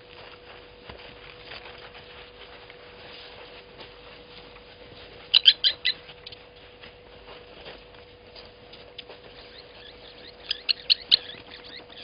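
A bird calling in two bursts of four or five short, sharp notes, about five seconds apart, over a faint steady hum and soft scattered ticking.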